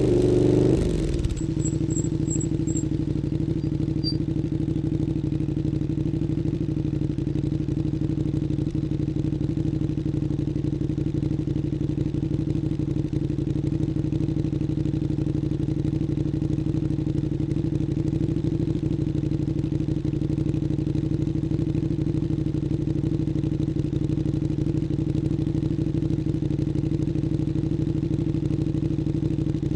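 KTM 1290 Super Duke R's V-twin engine through an Akrapovič Evolution Line exhaust, dropping back from a rev about a second in and then idling steadily.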